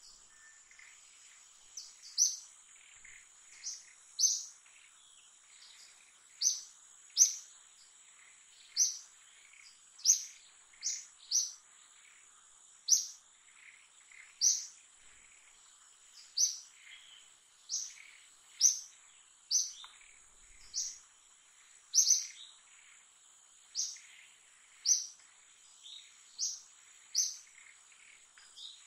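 A wild bird calling over and over with short, sharp chirps that drop in pitch, about one a second, over a steady high-pitched insect drone.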